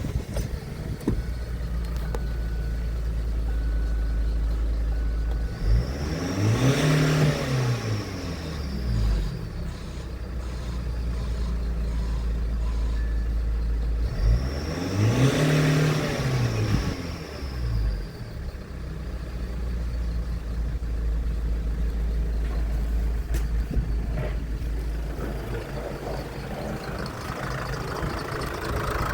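SsangYong 2.0 XDi (D20DTF) four-cylinder turbodiesel idling steadily, revved up and back down twice on test, about a third of the way in and again near the middle.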